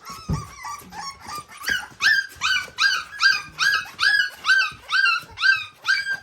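Three-week-old American Bully puppies crying, a steady run of high wailing cries about two to three a second that grow louder after about two seconds, with a low thump just after the start. The crying is a sign of hunger before feeding.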